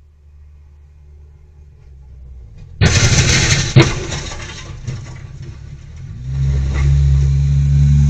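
Vehicle engine noise: a low hum, then a sudden loud rushing noise with a sharp bang about a second later, then a steady low engine drone.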